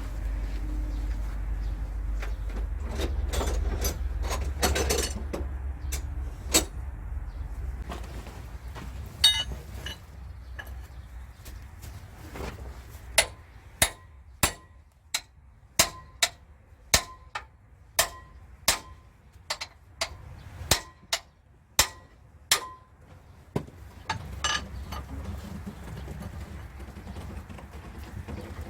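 A run of about a dozen sharp hammer blows on metal, roughly one a second, each ringing briefly, after a few scattered knocks earlier on.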